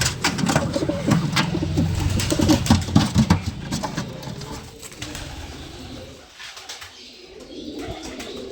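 Domestic pigeons cooing, with sharp clicks and flutter from fighting birds. It is loudest in the first half and quieter after about five seconds.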